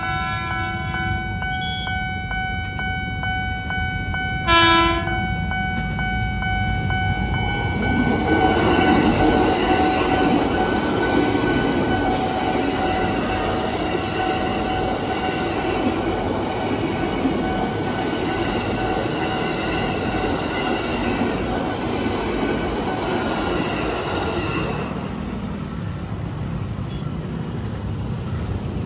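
Ex-JR 205 series electric commuter train sounding one short horn blast about four seconds in, then passing over the level crossing with a loud rumble of wheels on rail for about seventeen seconds. The crossing's warning alarm sounds a steady tone underneath and fades out near the end.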